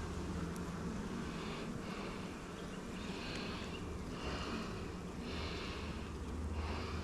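Honeybees buzzing steadily around the open hive, with a person's breathing close to the microphone, about one breath every second or so.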